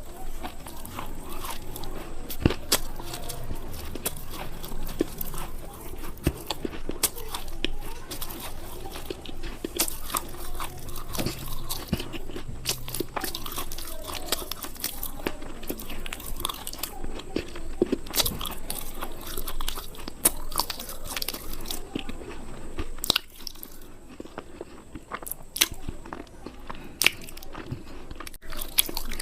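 A person biting and chewing something crisp close to the microphone: many sharp crunches and crackles, a little sparser for a few seconds after the middle.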